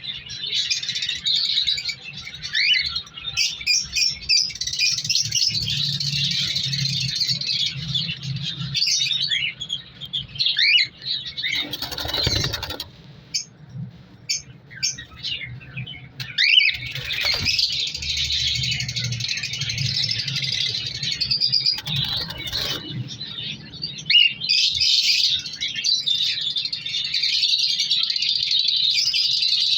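Cockatiels chirping and calling continuously, many short calls overlapping, with a few brief rustles or wing flaps in between and a quieter spell about halfway through.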